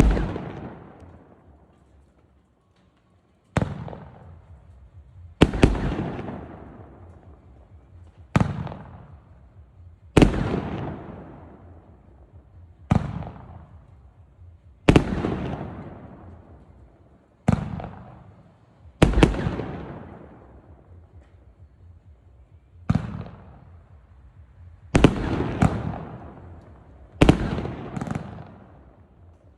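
Fuxing Dynasty 568-shot fireworks cake firing its shots one at a time, a sharp bang every two seconds or so, each followed by a long echoing rumble that fades out. Near the end some bangs come in quick pairs.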